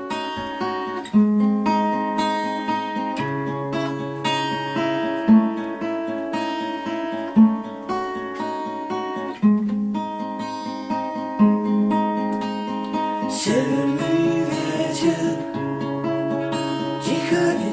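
Acoustic guitar playing a picked instrumental introduction, with a louder bass note struck about every two seconds under the melody.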